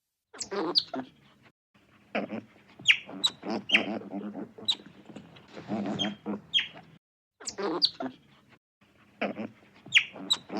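Short, high-pitched animal calls, each falling quickly in pitch, coming in quick clusters.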